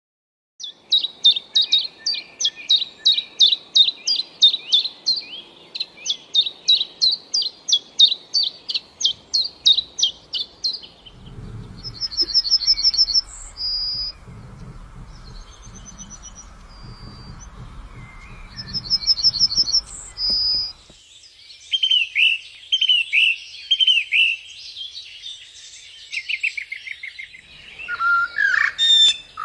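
Songbirds singing in a succession of recordings. First a long run of evenly repeated high notes, about three a second. Then short high trills and, in the second half, a different bird's series of falling whistled notes.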